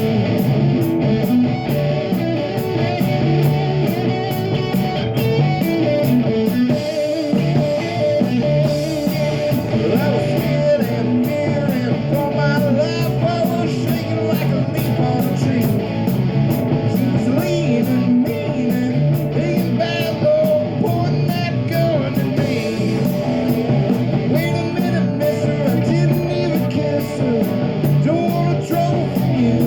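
A live rock band playing: electric guitar, bass and drums, with a steady, evenly spaced cymbal beat.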